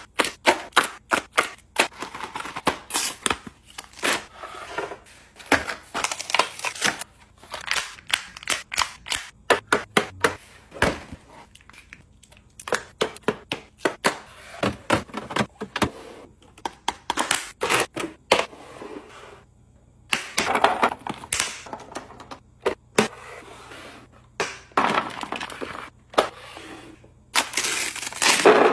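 Food packaging and containers being handled and set down while restocking a fridge: many sharp clicks and knocks, often several a second, with longer noisy stretches of handling between them.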